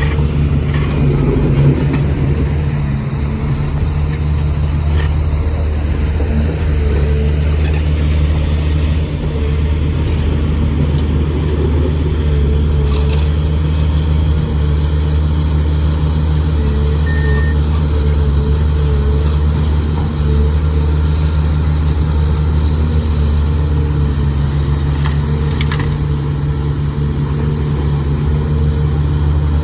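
Heavy diesel engine of construction machinery running steadily, with a few faint knocks.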